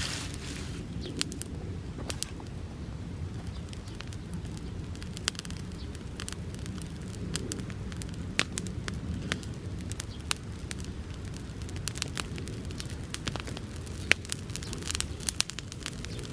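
Bonfire of dry summer grass burning: a steady low rumble of flames with frequent irregular sharp crackles and pops, one louder pop about 14 seconds in.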